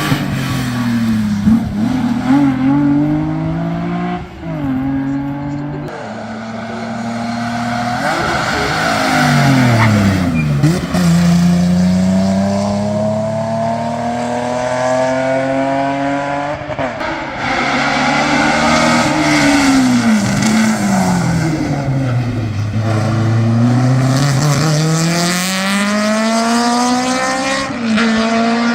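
A historic competition car's engine being driven hard on a hill-climb run. The revs climb and drop repeatedly with gear changes and lifts for corners, sinking low twice before pulling back up.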